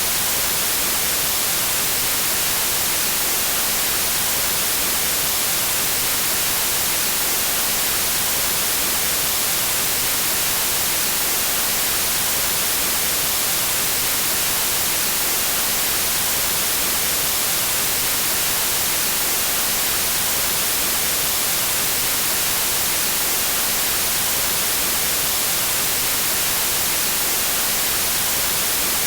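Steady white noise: an even, unchanging hiss strongest in the high frequencies.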